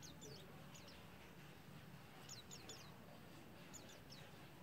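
Faint, high, thin chirps from a group of white-eyes (pleci): short notes sliding downward, coming in small clusters of two to four near the start, in the middle and near the end.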